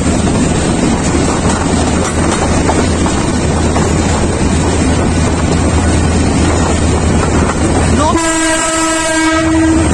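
Moving Bangladesh Railway commuter train heard from an open carriage door: a steady low rumble with wheel-on-rail and wind noise. About eight seconds in, a train horn gives one steady blast lasting under two seconds.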